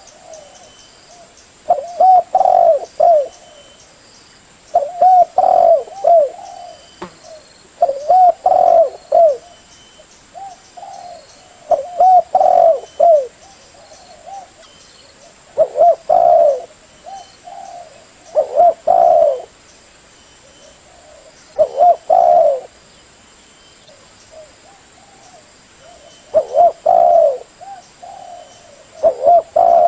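Spotted dove cooing: short phrases of several low, mellow coos, repeated about nine times with pauses of a few seconds between them.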